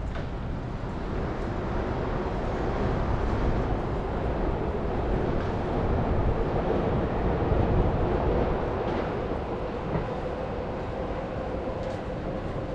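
A train passing, a dense low rumble that grows to its loudest about two-thirds of the way through and then eases, with a faint steady tone running through it.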